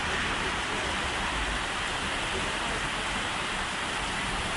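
Heavy rain falling, a steady hiss without a break.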